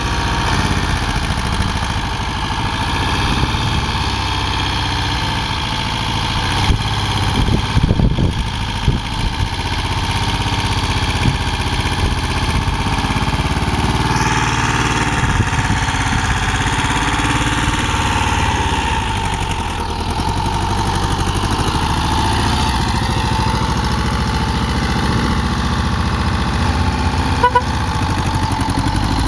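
Volkswagen Bay camper's air-cooled flat-four engine idling steadily.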